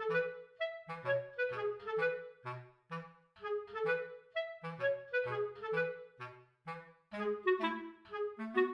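Light, bouncy background music: a woodwind melody, clarinet-like, in short detached notes over a low bass line.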